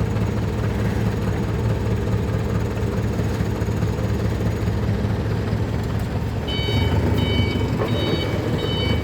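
A vehicle engine idling steadily with a low hum. About two-thirds of the way in, an electronic beeper starts sounding in short repeated multi-tone beeps.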